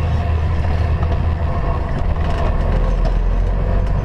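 Tractor-trailer engine and tyre noise heard from inside the cab while driving: a steady, loud low drone.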